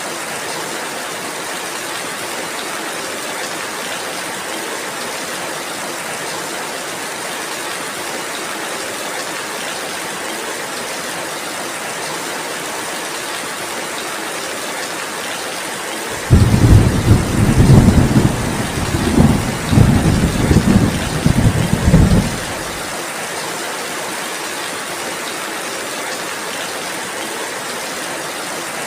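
Steady rainfall. A little over halfway through, a loud low rumble of thunder starts abruptly, rolls in several surges for about six seconds and dies away, leaving the rain alone again.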